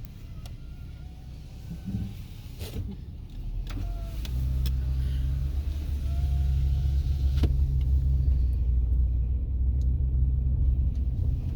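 A car's low engine and road rumble heard from inside the cabin, growing louder and steadier about four seconds in, with a few sharp clicks.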